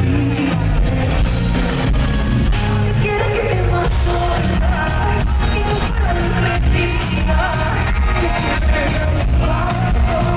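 Live pop song with a woman singing over a heavy beat, played loud through an arena's sound system and recorded from the audience.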